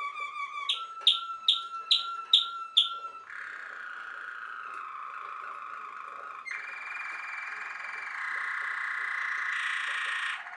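Waterslager (Malinois) canary singing a string of song tours: a quick trill, then six loud separate notes about two and a half a second, then long rolling trills that shift pitch and cut off suddenly near the end.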